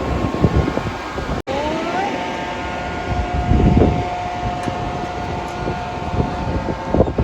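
Wind buffeting the microphone, and about a second and a half in a siren-like pitched tone rises briefly, then holds steady for about five seconds before it stops near the end.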